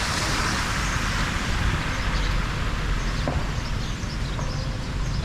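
Steady rush of water flowing through a cleared drain, with a continuous low rumble under an even hiss.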